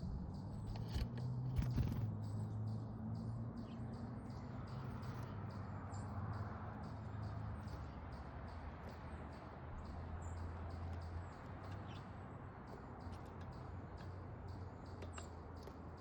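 Small songbirds chirping with short, high chips repeating a few times a second, over a low steady hum; a few sharp clicks come in the first two seconds.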